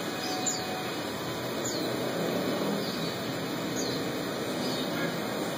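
A small bird chirping, short high notes that each drop in pitch, every second or so, over steady background noise.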